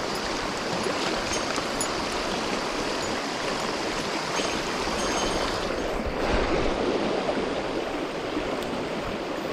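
Mountain stream running: a steady rush of flowing water, swelling briefly a little past the middle.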